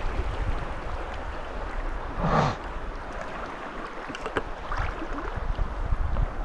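Kayak on moving river water: a steady wash of flowing, lapping water around the hull, with one louder short swish about two and a half seconds in and a few faint knocks later.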